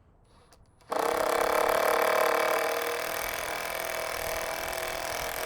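A power driver running steadily, driving a concrete screw through timber. It starts suddenly about a second in and runs a little quieter from about halfway.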